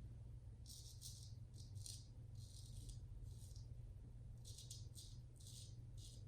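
Straight razor scraping through lathered stubble in about a dozen short, faint strokes, spaced irregularly.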